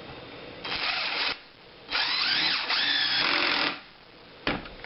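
DeWalt DCF885 20V Max 1/4-inch impact driver driving a 4-inch screw: a short burst, then a longer run of almost two seconds with the motor pitch rising and falling. A short thump near the end.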